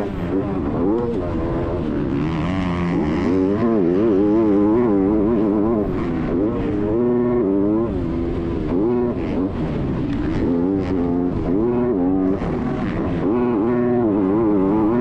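Motocross motorcycle engine being ridden hard, revving up and down over and over as the throttle is opened and closed, with no pause.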